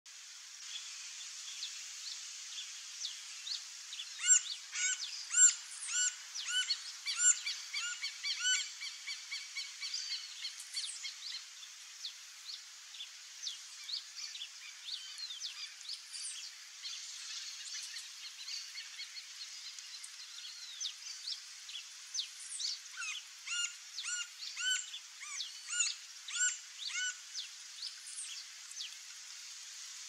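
Wild birds calling and chirping, with two runs of loud repeated call notes at about two a second, one starting about four seconds in and one about twenty-two seconds in.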